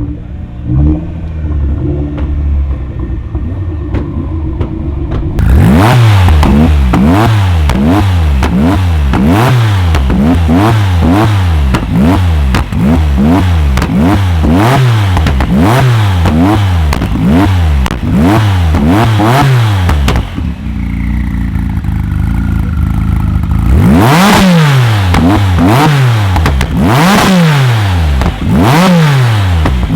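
Tuned car engine being revved hard over and over, its pitch climbing and dropping about once a second. Before that, for the first few seconds, a lower, steadier engine sound. About two-thirds through there is a brief drop with a falling whine, then the revving starts again.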